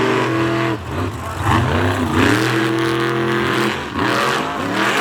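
Monster truck engines revving hard at the start line, the pitch climbing, holding and dropping away in repeated bursts.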